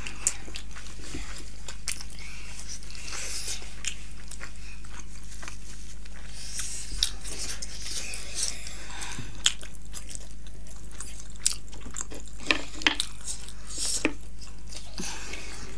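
Close-up chewing and wet mouth smacking of two people eating big buff (buffalo-meat) momo dumplings, with scattered sharp clicks of biting and lip smacks. A steady low hum runs underneath.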